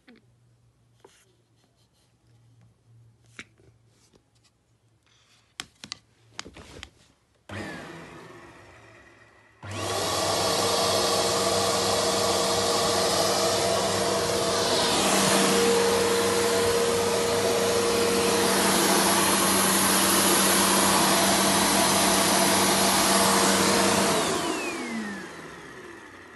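Turbomax upright vacuum cleaner, switched on briefly and let spin down about seven seconds in, then switched on again about ten seconds in. It runs loud and steady with a constant motor hum for about fourteen seconds, then is switched off and winds down with a falling whine. Light clicks and handling noises come before it.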